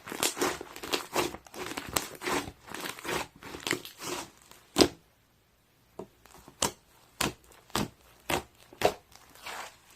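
Slime being squished and stretched by hand, with dense crackling at first. After a brief pause come separate sharp pops about twice a second as it is pressed.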